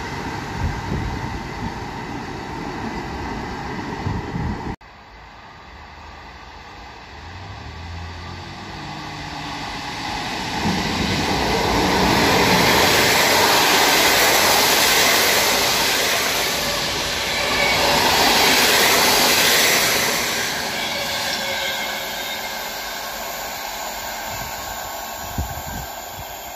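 A train running past on the track, cut off abruptly about five seconds in. Then another train approaches, passes loudly and fades away.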